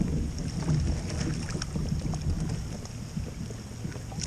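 A heavy crab pot being hauled up by its line beside a kayak: water and handling noise with scattered small knocks and clicks over a low, steady rumble.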